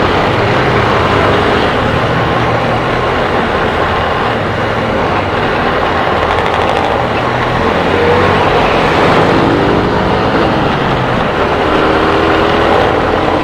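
Motorcycle engine running in slow traffic, picked up by a helmet camera's external microphone along with other vehicles' engines; the engine note climbs a few times in the second half.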